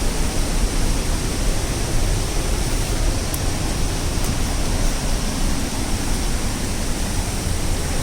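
Monsoon-swollen waterfall rushing steadily: powerful, fast-flowing water.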